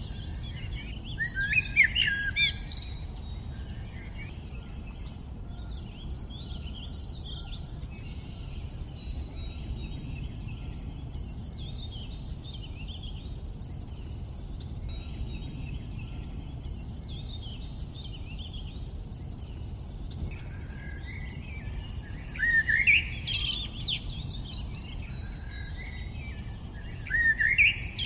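Songbirds chirping and singing in a dense chorus of short, quick calls, louder in bursts near the start, about 22 seconds in and near the end, over a steady low background rumble.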